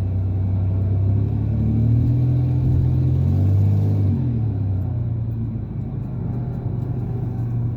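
Vehicle engine and road rumble heard from inside the cab while driving, a steady low drone. The engine note climbs a little, then drops about four seconds in.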